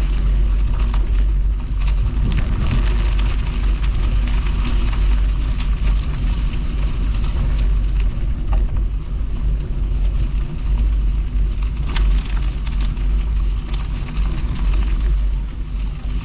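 Wind buffeting the microphone of a bicycle-mounted camera as a steady low rumble. Over it runs a light crackle from the tyres rolling on the canal towpath.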